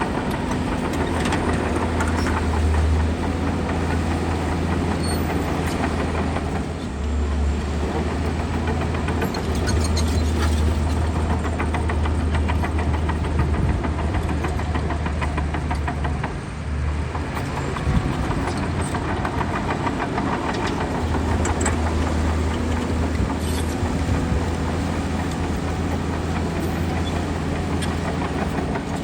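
Heavy diesel engine of earthmoving machinery running steadily under work. Its low drone falls away briefly twice, about a third and about halfway through.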